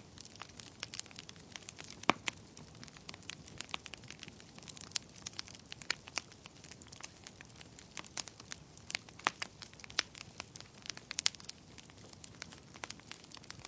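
Wood fire crackling as logs burn, with irregular sharp pops over a low hiss and a few louder snaps.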